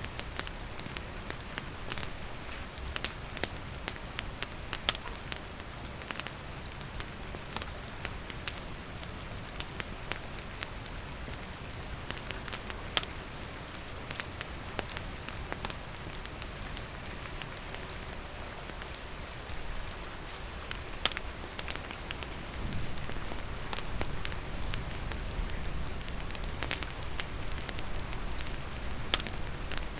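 Steady rain falling, with a campfire crackling in many sharp, scattered pops over it.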